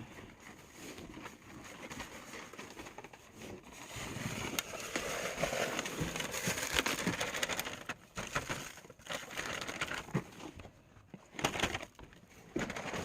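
Snow shovel scraping and crunching through heavy, wet snow in uneven strokes, busiest in the middle.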